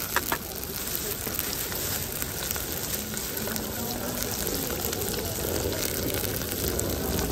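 Food sizzling in a pan at an outdoor cooking station, a steady hiss. Two light clicks come right at the start.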